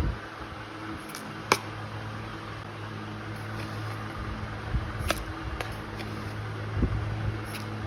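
A steady low hum with a few sharp clicks, the loudest about a second and a half in, and a couple of soft knocks.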